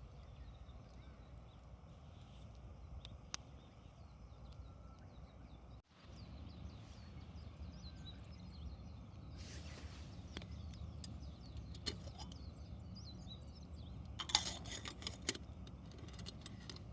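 Wood campfire crackling, with scattered sharp pops and a quick flurry of crackles about fourteen seconds in, over a steady low rumble.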